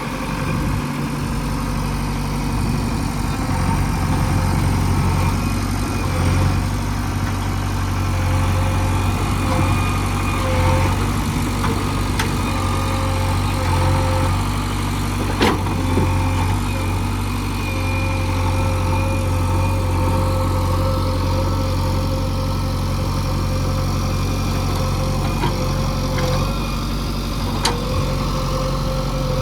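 A heavy machine's diesel engine runs steadily under work, its drone rising and falling slightly, with a faint whine that comes and goes. Two sharp knocks stand out, one about halfway through and one near the end.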